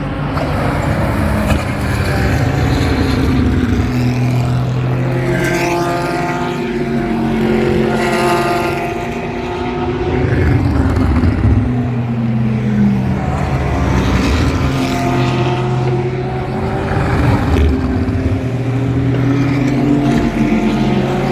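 Several GT race cars passing one after another, their engine notes rising and falling in pitch as they go by. A steady low engine hum runs underneath and drops out briefly twice.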